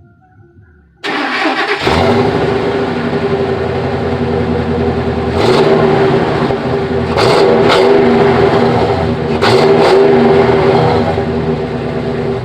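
Cold start of a 2001 Ford F-250 XLT pickup: the starter cranks briefly about a second in, the engine catches and runs steadily, and it is revved up three times.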